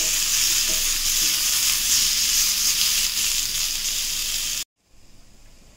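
Chopped chayote and tomato pieces with urad dal sizzling in oil in a kadai while being stirred with a spoon. The steady sizzle cuts off suddenly near the end, leaving a quiet room.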